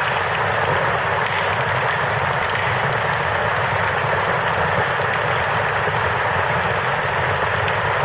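Steady rushing of a flowing river, mixed with the faint crackle of a campfire.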